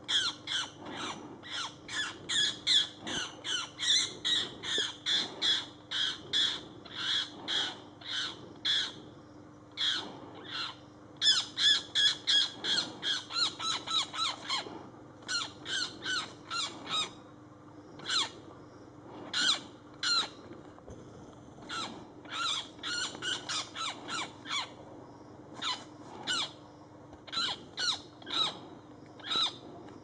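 Harsh, rapid bird distress calls during a hawk's attack on a cuckoo, repeated two to three times a second. There is a short break about nine seconds in, and the calls come more spaced out in the second half.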